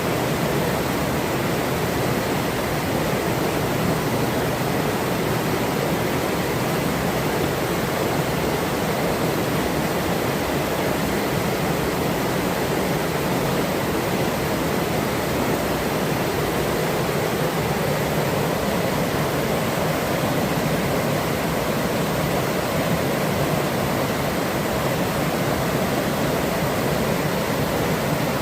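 Forest river flowing: a steady, unbroken rush of running water, strongest in the low and middle range, with no separate splashes or calls standing out.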